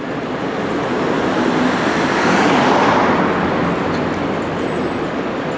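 Scania coach with a Modasa Zeus II body driving past on the road. Its engine and tyre noise swell to a peak about halfway through, then ease off a little.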